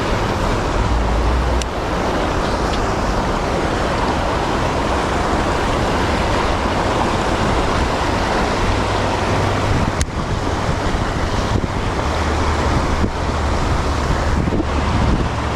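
Wind buffeting the microphone: a steady rushing with gusty low rumbles, and a sharp click about ten seconds in.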